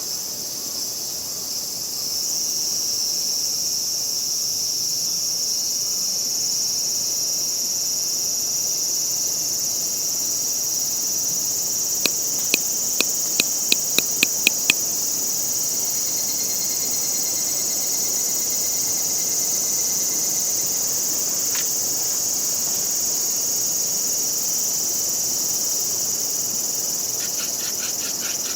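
A steady, high-pitched chorus of insects trilling. About halfway through, a quick run of about eight sharp clicks, roughly three a second, stands out above it.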